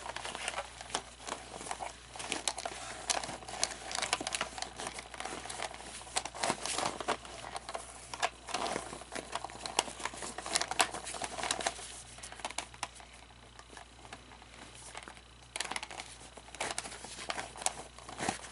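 Rustling and irregular clicking of an animatronic figure's plastic parts and costume being handled and worked on, with a faint steady hum underneath.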